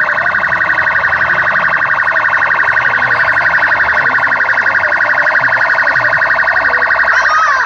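Police siren sounding a steady, rapidly pulsing high tone; a second, wavering tone comes in near the end.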